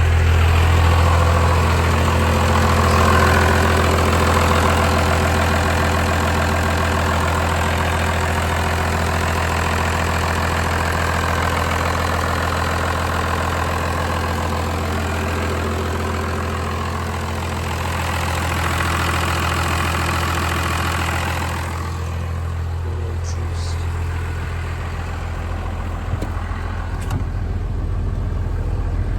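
12-valve Cummins 6BT inline-six turbodiesel idling steadily just after a cold start, at about 30 degrees with no block or grid heater. About three quarters of the way through, its sound turns duller as the higher part fades while the low idle carries on.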